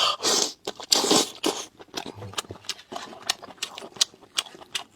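Close-miked mouth sounds of someone eating meat: two loud noisy sucking bursts in the first second and a half, then a run of irregular wet clicks and smacks of chewing.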